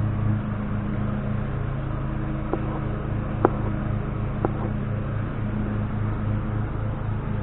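A steady low mechanical hum with an even pulsing beat, like a small engine or motor running, with three light clicks about a second apart midway; it cuts off just before the end.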